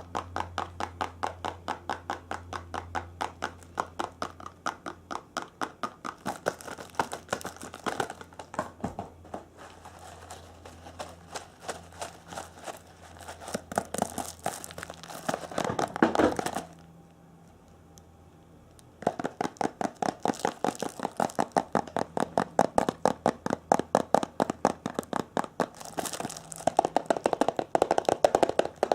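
Rapid, rhythmic tapping and crinkling on an object, about four taps a second. They swell to a louder crinkling stretch a little past halfway, stop for about two seconds, then resume.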